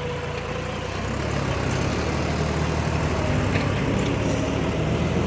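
Heavy diesel engine running steadily, with a faint whine above the engine hum that dips slightly about a second in.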